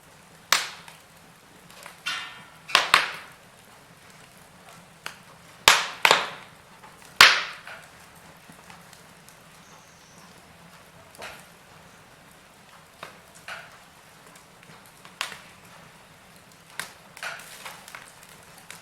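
Wood fire in a fireplace crackling: irregular sharp pops and snaps over a faint steady hiss, with several loud pops in the first half and smaller, sparser ones later.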